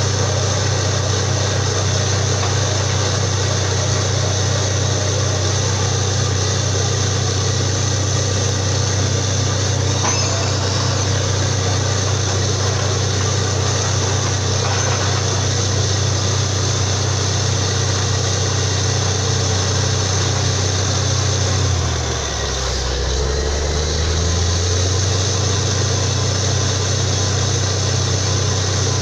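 Borewell drilling rig's engine running steadily and loudly. About two-thirds of the way through, its pitch sags for a couple of seconds, then comes back up.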